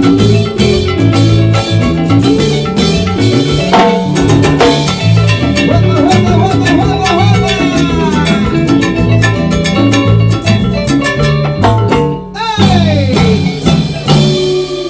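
Live band playing an instrumental stretch of a Latin dance song over a steady rhythmic bass line. About twelve seconds in, the music thins briefly around a falling slide before the band plays on.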